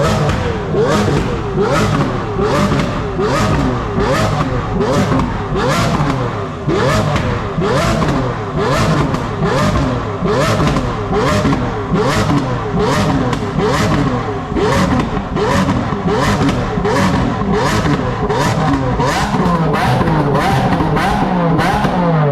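Car engines being revved hard over and over in quick, regular blips, the pitch shooting up and dropping back about one and a half times a second, over the steady rumble of other engines running.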